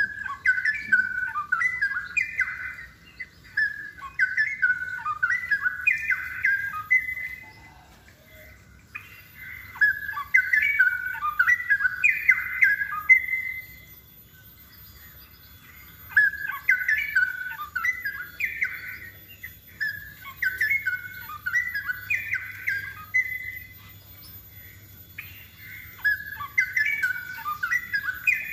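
Straw-headed bulbul (cucak rowo) singing: repeated phrases of rapid, bubbling warbled notes, each a few seconds long, with short pauses between them.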